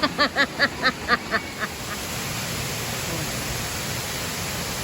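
A person laughing in a quick run of about eight "ha" bursts, then steady rushing water from a waterfall.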